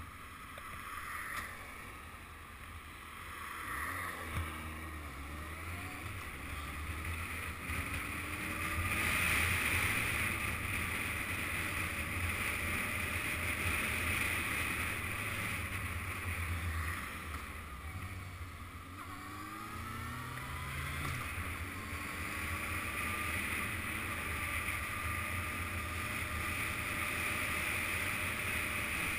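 Yamaha FZS600 Fazer's inline-four engine running under way, its pitch rising as it accelerates twice, about four seconds in and again near two-thirds of the way through, with a steady rush of wind over it.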